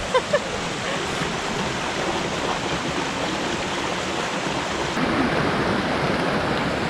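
Mountain creek water rushing steadily, growing slightly louder about five seconds in.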